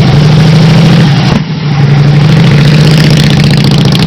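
An engine running loud and steady, with a brief dip about a second and a half in before it picks up again.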